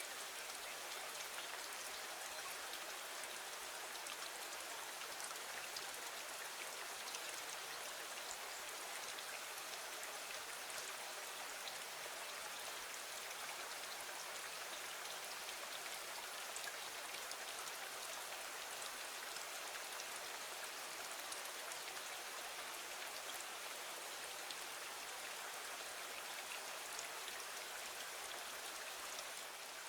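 Steady gentle rain falling against a window: an even hiss with a fine patter of drops that does not change.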